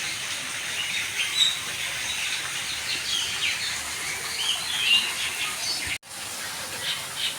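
Many birds chirping and calling at once in short, overlapping notes over a steady hiss. The sound drops out for an instant about six seconds in.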